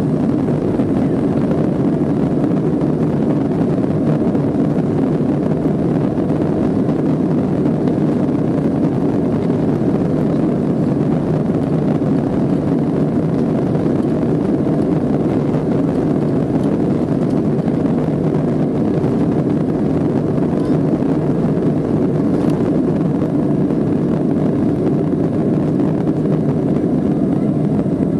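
Boeing 737-500 with its CFM56 turbofan engines at takeoff power: a steady, loud, even rush of engine and air noise with no rise or fall in pitch.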